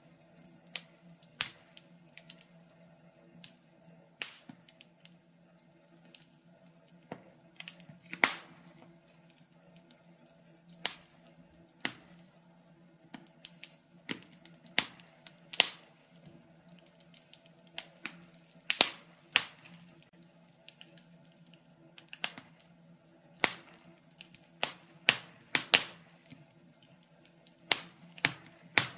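Wood fire burning in a fireplace, crackling with irregular sharp pops and snaps, some much louder than others.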